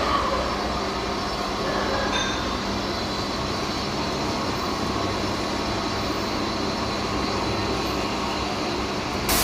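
Gas heating torches burning with a steady, even hiss, heating a stone crusher's bearing seat so the bearing can be pressed out.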